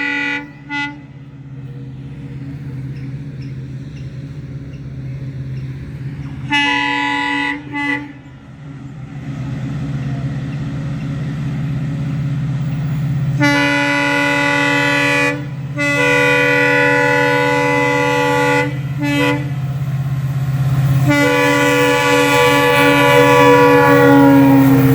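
Locomotive horn sounding a series of blasts from an approaching train: a few short toots early on, then long blasts in the second half, the last one still going at the end. A steady low engine rumble grows louder underneath as the train comes nearer.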